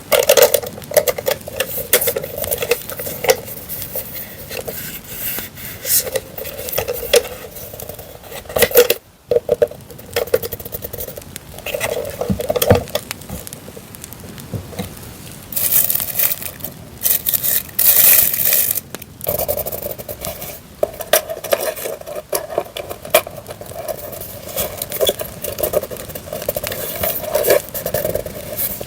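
Crackling campfire sound track under the rustling and scraping of paper and stationery items being handled, with a brighter burst of rustling around two-thirds of the way through.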